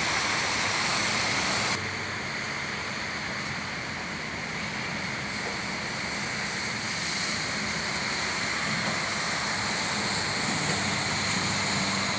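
Steady rain hiss over city traffic running underneath. The whole sound drops suddenly a little, a couple of seconds in.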